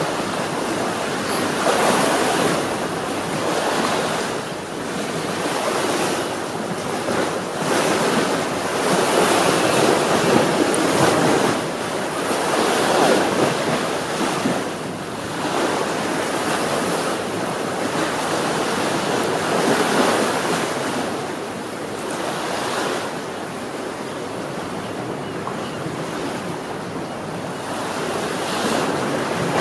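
Ocean waves breaking and washing up on the shore, a steady rush that swells and eases every few seconds, with wind on the microphone.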